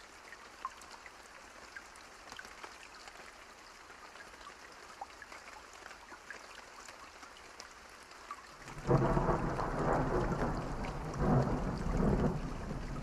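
Light rain falling steadily, with scattered small ticks of drops or fire crackle. About nine seconds in, a loud roll of thunder breaks in suddenly and rumbles on, swelling twice.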